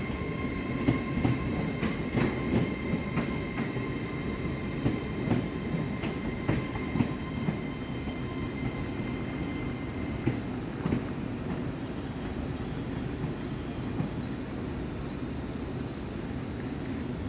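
LNER Azuma multiple unit running along the station platform line, its wheels rumbling and clicking over the rail joints. A steady whine runs for the first ten seconds or so, then a thin high squeal sounds from about eleven seconds to the end as the clicking dies away.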